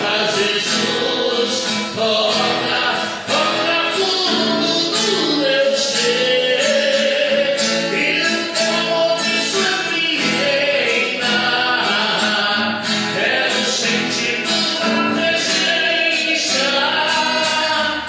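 Gospel worship song: voices singing over strummed acoustic guitar with a steady beat.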